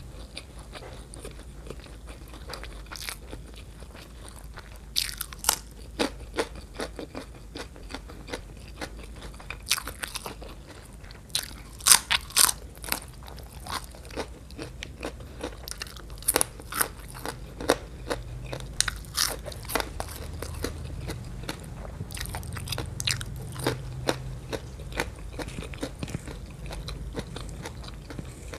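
Close-miked eating: crunchy bites and chewing, with sharp crunches coming irregularly and the loudest about twelve seconds in.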